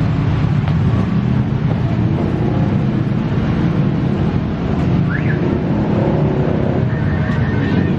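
Steady, loud low rumble of vehicles running, with a brief rising-and-falling chirp about five seconds in.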